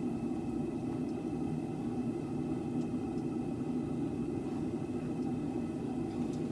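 Steady mechanical roar with a faint constant whine, unchanging in level, with a few faint ticks.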